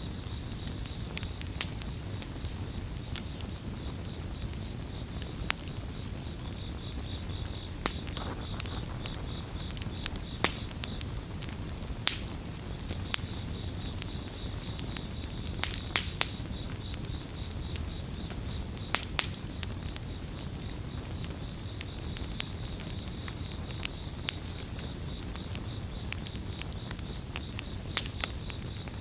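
Campfire crackling, with sharp pops at irregular intervals over a low, even rush, and crickets trilling steadily in a high, pulsing note behind it.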